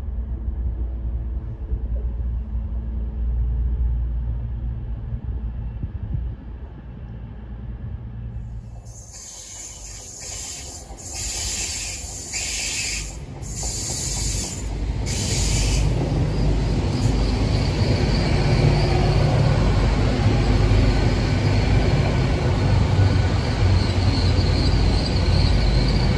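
A train: a steady low engine hum at first, then after a sudden change about a third of the way in, the hiss and rumble of a train running past, getting louder in the last third.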